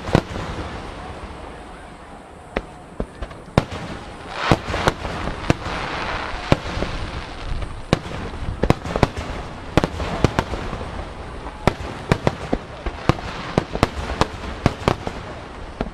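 A star mine barrage of large aerial firework shells bursting in quick succession: many sharp bangs, irregular and closer together in the second half. A steady wash of noise fills the gaps between them and is densest about four to seven seconds in.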